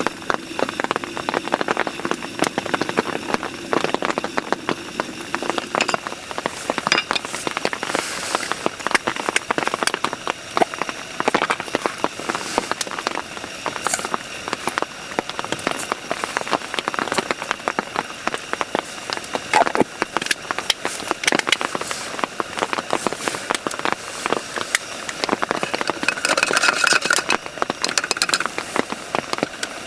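Heavy rain falling on a surface: a dense, irregular run of drop impacts. A brief higher-pitched sound comes through near the end.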